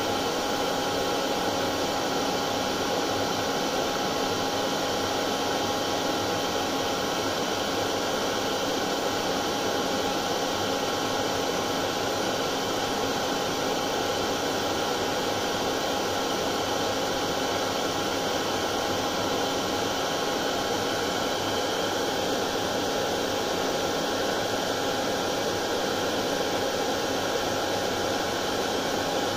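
Hair dryer running steadily: a constant airy whoosh with a faint steady hum, used as soothing white noise for a colicky baby.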